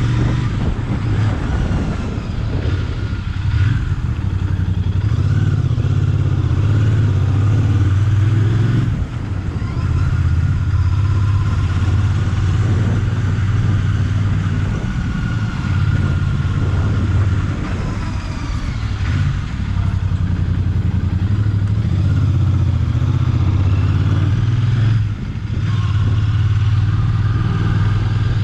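Royal Enfield Bear 650's 648 cc parallel-twin engine running under way, heard from on board the motorcycle, with wind noise on the microphone. The engine note drops briefly about 9, 18 and 25 seconds in, then picks up again.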